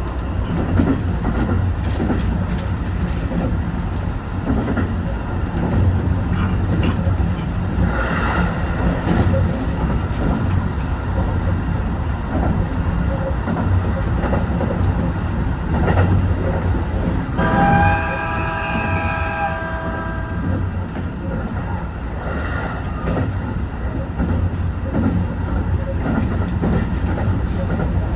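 Train running noise heard from the front of an HB-E210 hybrid train: a steady rumble with rail clatter. About two thirds of the way through, a horn sounds for about two seconds.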